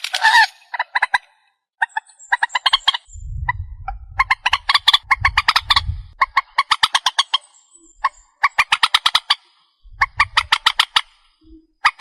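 Recorded calls of the trích ré, a Vietnamese rail-family water bird: rapid chattering phrases of quick pulses, each about a second long, repeated with short pauses. This is a lure recording played to draw the birds at night. A low rumble sits under the calls in the middle and again about ten seconds in.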